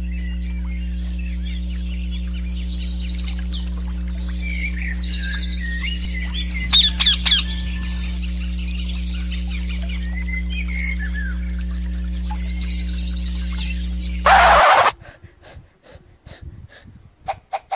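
Several songbirds chirping and singing quick trills over a steady low hum. About fourteen and a half seconds in, a short loud burst of noise cuts the birdsong off, and a run of short, evenly spaced taps follows near the end.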